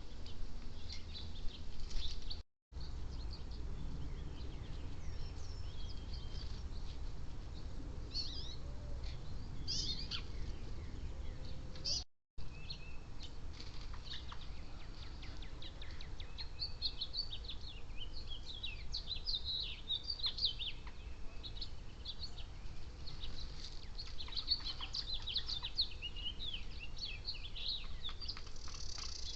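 Wild birds chirping: many short, high calls, coming thick and fast in the second half, over a steady low rumble. The sound cuts out completely twice, for a moment each time.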